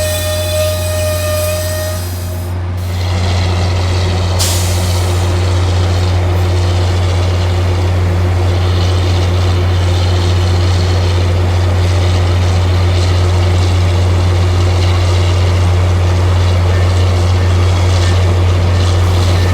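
Tri-Rail commuter train running with a steady low rumble and noise. A held multi-tone sound in the first two and a half seconds cuts off abruptly.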